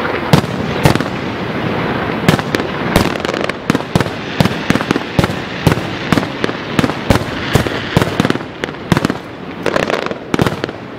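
Aerial firework shells bursting in rapid succession: sharp bangs two or three a second over a continuous din.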